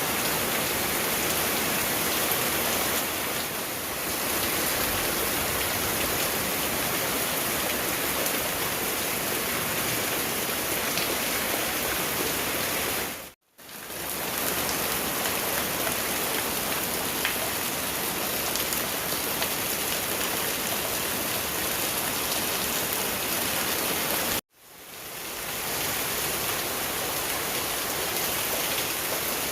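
Heavy storm rain pouring steadily. The sound cuts out abruptly twice, about 13 and 24 seconds in, and fades back in each time.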